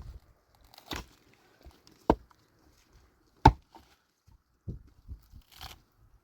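A few sharp, irregularly spaced knocks, the loudest about three and a half seconds in, followed by softer low thuds near the end.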